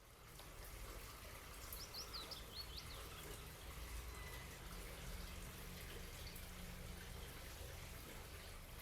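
Faint ambient room tone with a steady low hum and light hiss. A quick run of short, high, bird-like chirps comes about two seconds in.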